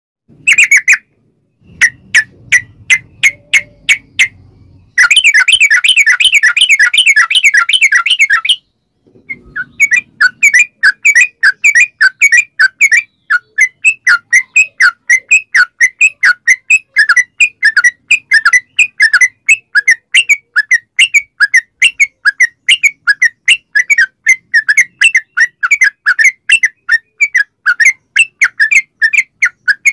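Yellow-vented bulbul (trucukan) singing a rapid chattering song of sharp whistled notes. It starts with a few separate notes, breaks into a dense fast trill for about three seconds, pauses briefly, then runs on steadily at about three notes a second.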